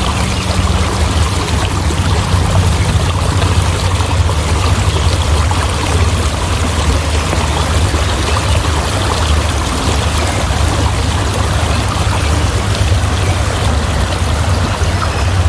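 Steady rushing water, like a stream, with a constant low rumble underneath.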